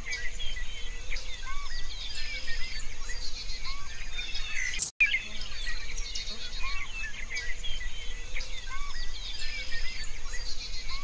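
A dense chorus of many small birds chirping and trilling, with short whistled notes repeating every second or two. The sound drops out for an instant near the middle.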